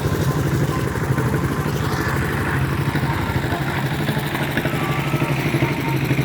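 Isuzu Elf dump truck's diesel engine running steadily, with a fast, even pulsing.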